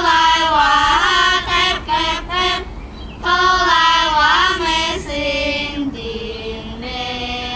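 Young Dong girls singing a folk-song melody in high, bright voices, with gliding ornaments between notes. Two similar phrases are sung with a short breath about three seconds in, then a lower, steadier line follows.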